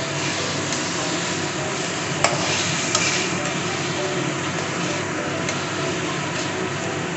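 Chicken pieces frying and sizzling in a pan, with a steady hiss, while being stirred. A utensil clicks sharply against the pan a couple of times, about two and three seconds in.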